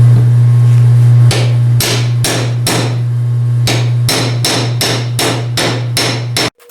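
Hammer blows on metal, about a dozen strikes at roughly two a second, during work on a vise part, over a loud steady low hum. The sound cuts off abruptly just before the end.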